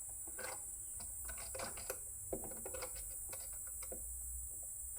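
Faint, scattered light clicks and taps of a small screwdriver and tiny screws as a micro switch is screwed back into its mount inside an espresso machine.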